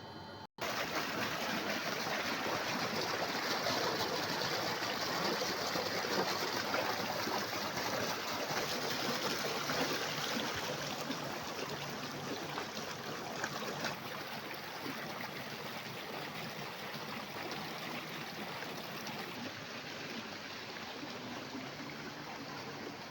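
A stream's water flowing and splashing steadily, a continuous rushing noise that cuts in abruptly about half a second in.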